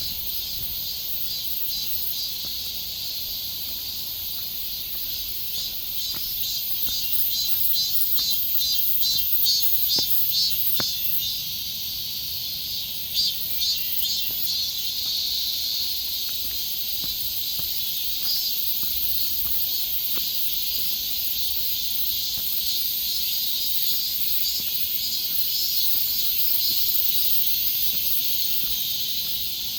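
Chorus of insects trilling, a high-pitched sound made of rapid, evenly repeating pulses, with a few faint clicks.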